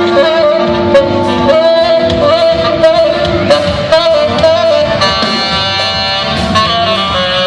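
Live rock band playing an instrumental jam: a sustained, wavering lead melody over bass and drums.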